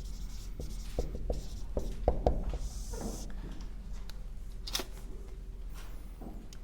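Writing on a board: scattered light taps and a short scratchy stroke.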